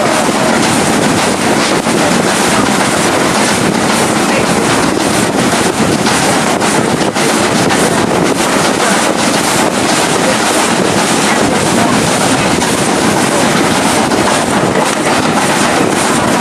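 Passenger train running at speed with wind buffeting the microphone: a loud, steady rushing noise with no clear beat.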